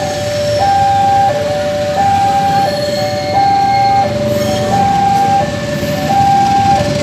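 Railway level-crossing warning alarm sounding a steady two-tone high-low signal, each tone lasting under a second, over a low rumble.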